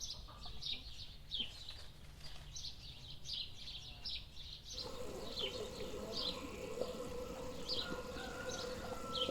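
Small birds chirping: short falling chirps, a few each second. About halfway through, a steady hum starts underneath.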